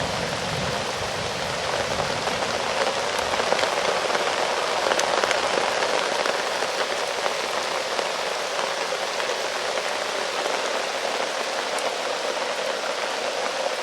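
Heavy rain pouring down steadily, a dense, even hiss of drops.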